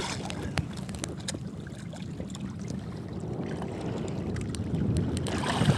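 Steady low rumble of a small boat on the water, with scattered light clicks and knocks.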